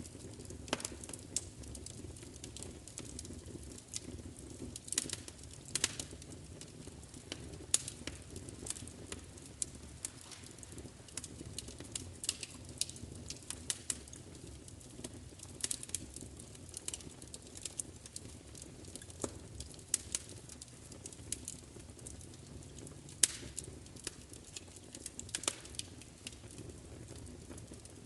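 Fire crackling: irregular sharp pops and snaps, several a second, a few much louder than the rest, over a low steady rumble from the burning fire.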